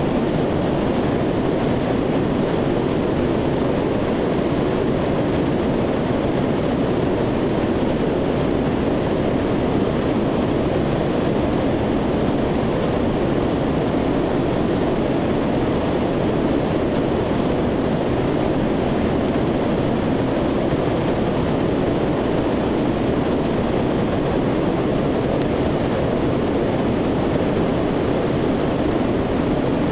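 C-130 Hercules turboprop engines running steadily in flight, heard from inside the aircraft as an even, unchanging rumble.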